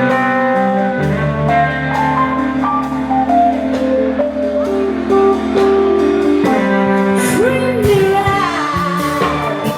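Live blues-rock band playing, with electric guitar, bass and drums under a singing voice.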